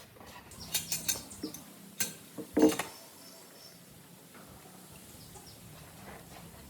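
A quick series of sharp knocks and clatters, about six in the first three seconds with the loudest near the end of the run, then a faint steady low hum.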